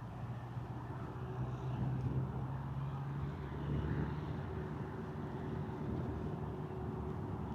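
An engine running steadily, its hum stepping up slightly in pitch about three and a half seconds in.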